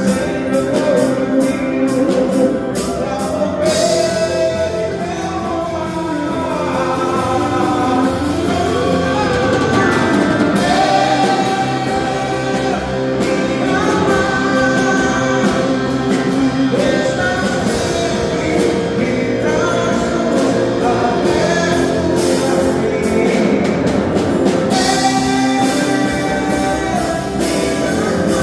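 Live band playing a worship song, with singing over guitar and drum kit. Dense cymbal crashes sound at the start and again near the end.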